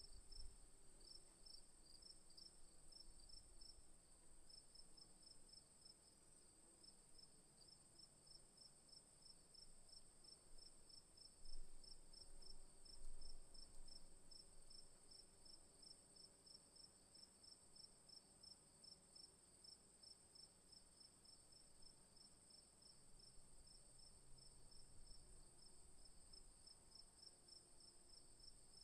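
Crickets and other insects in the bush: a steady high-pitched trill under a fast, even train of cricket chirps that runs on without a break. A couple of faint low rumbles come about twelve seconds in.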